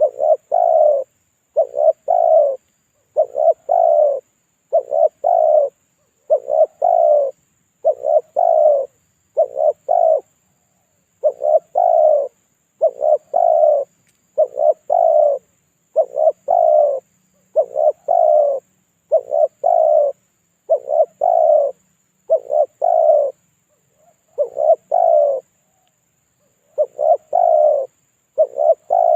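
Spotted dove cooing: the same short coo phrase, a quick note run into a longer rolling coo, repeated steadily about once a second, with a couple of brief pauses in the later part.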